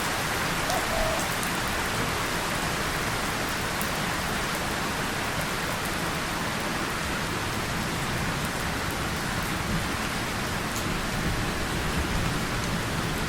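Steady rain falling on a tin surface and on leaves, with scattered sharper drip ticks on top of an even hiss.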